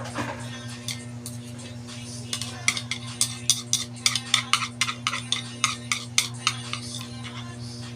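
A utensil clinking and scraping against a bowl while eating noodles: a quick run of sharp clinks, about three or four a second, starting a little over two seconds in and stopping about two-thirds of the way through, over a steady low hum.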